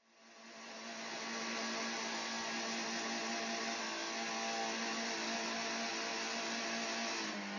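Car engine running at a steady pitch with road noise, heard from a moving car; near the end the engine pitch shifts.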